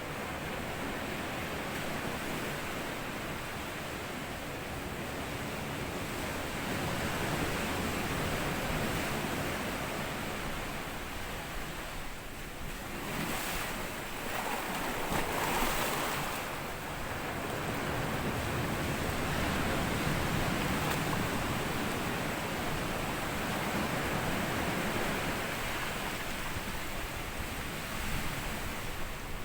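Sea waves washing up and back on a sandy beach: a continuous wash of surf that swells and eases every several seconds, loudest as a wave breaks about halfway through.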